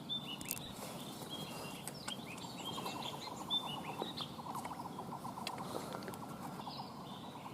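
Birds chirping in short, repeated calls, with a fast trill in the middle, over faint outdoor background noise and a few light clicks.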